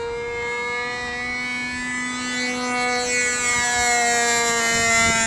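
Distant RC airplane's Super Tiger .51 two-stroke glow engine running at high revs in flight: a steady high-pitched whine whose pitch drifts slightly, growing a little louder toward the end.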